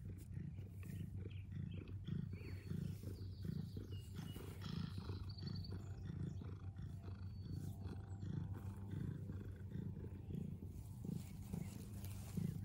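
Domestic cat purring steadily and faintly, the low rumble rising and falling about twice a second with its breathing.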